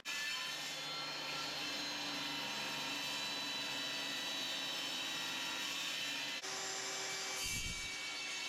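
Power tool running steadily as it cuts through moose antler for knife-handle scales. The sound breaks off sharply and resumes about two-thirds of the way through, and there is a short low thump near the end.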